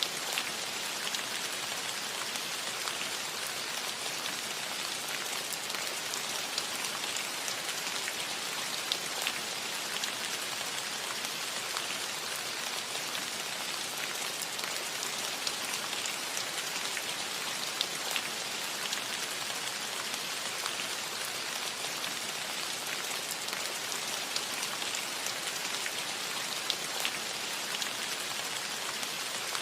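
Steady rain falling on a cottage roof: an even hiss with many individual drops ticking sharply, irregularly, through it.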